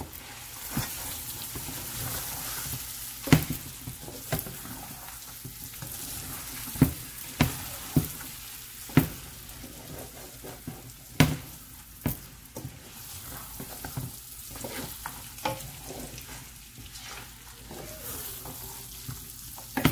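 Rice and spiced meat sizzling in oil in a large metal pot while being stirred with a wooden spoon, which knocks sharply and irregularly against the pot.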